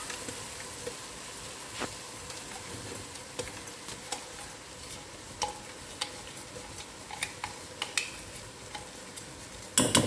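Onion-and-spice masala sizzling gently in ghee over a low flame, a steady hiss with scattered light clicks and scrapes of a plastic spatula against the pot, and a louder clatter just before the end.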